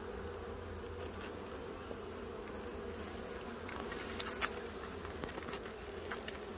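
Honeybees buzzing steadily around an open hive, with a few light clicks and one sharp click about four and a half seconds in.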